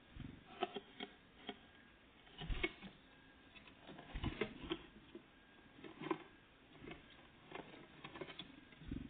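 Irregular light taps, clicks and small knocks of great tits and blue tits pecking and hopping at their food, some with a dull thump of a landing or a seed being hammered. The sound is faint.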